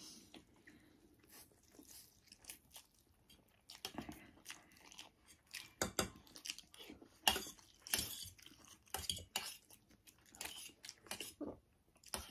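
Close-up chewing of spicy instant noodles: irregular wet mouth clicks and crunches, with now and then a light clink of cutlery on a dish.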